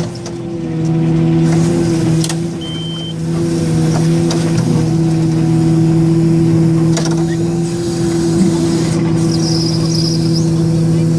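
Large diesel engine of heavy earthmoving equipment running at a steady speed, a constant low drone with a brief dip in loudness near the start and again around three seconds in. A few sharp clicks and one short high beep about three seconds in.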